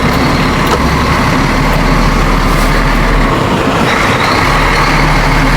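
Crane lorry driving, heard from inside the cab: a steady engine and road drone.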